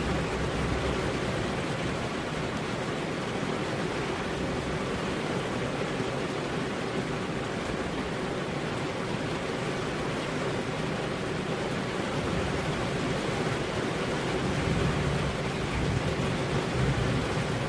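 Steady rain, with a low rumble swelling a few seconds before the end.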